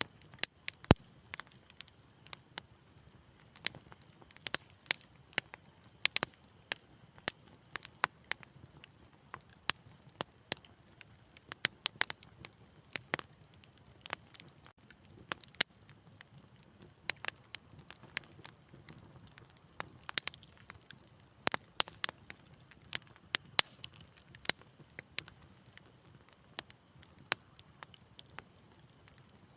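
Fire crackling in a fireplace: frequent, irregular sharp pops and snaps over a faint steady background.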